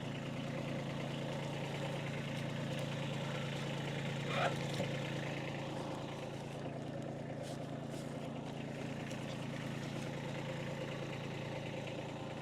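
Kubota tractor's diesel engine running steadily at a constant speed, with one brief higher-pitched sound about four and a half seconds in.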